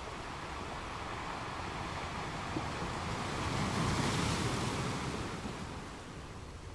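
Gentle ocean waves: the surf swells to a peak about four seconds in as a wave breaks, then eases off as it washes back.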